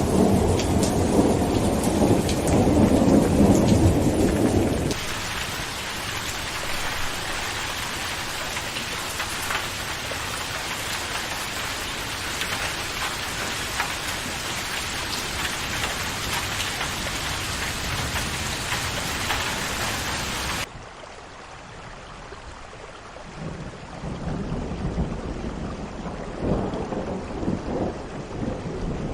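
Rain falling with rolling thunder for the first few seconds. The thunder stops abruptly about five seconds in, leaving a steady hiss of rain. About twenty seconds in the sound cuts to a quieter, duller stretch of rain, with low rumbles of thunder coming back near the end.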